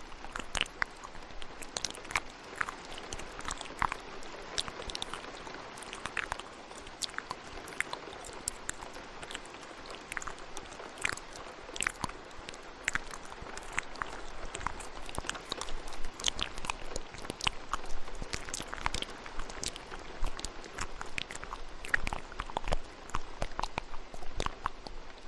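Layered ASMR mouth sounds, with many quick wet clicks and smacks at an uneven pace, over a steady hiss of rain.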